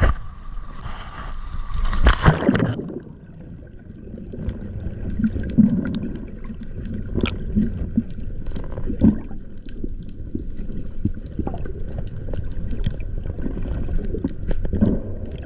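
A loud rush of water about two seconds in, then muffled underwater sound of the sea with bubbling, gurgling and small clicks, as heard by a camera submerged with a spearfishing diver.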